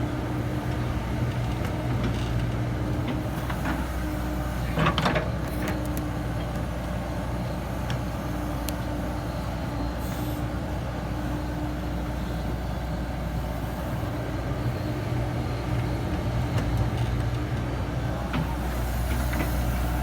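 Komatsu PC70-8 excavator's diesel engine running steadily, with a few short knocks about five seconds in and again near the end.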